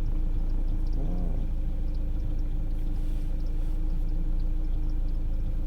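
Steady low rumble with a constant faint hum, and a brief faint voice about a second in.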